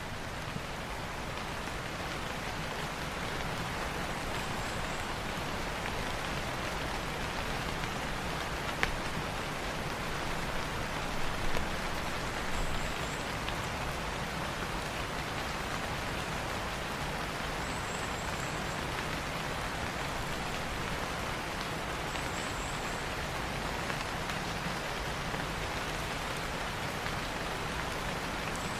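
Steady rain falling, an even hiss of drops, with a sharp click about nine seconds in and a few small knocks a couple of seconds later.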